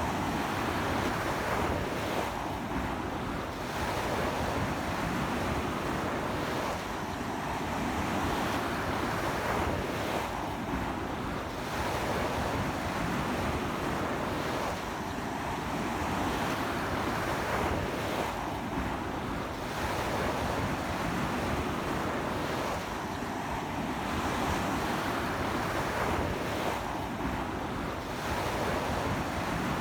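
Ocean surf breaking on a beach in strong wind. A continuous wash of waves swells and eases about every four seconds.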